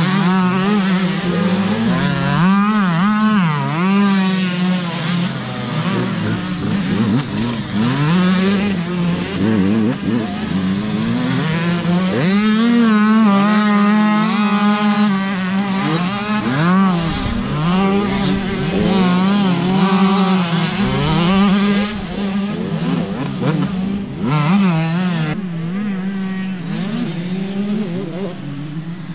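Several motocross bikes' engines revving on a race track, their pitch rising and falling again and again as riders work the throttle. A steady low drone runs underneath.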